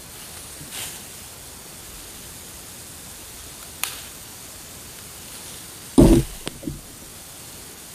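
Steady hiss with a few brief knocks: a sharp click partway through and a heavier thump about six seconds in, followed by two smaller knocks. No chainsaw motor is running.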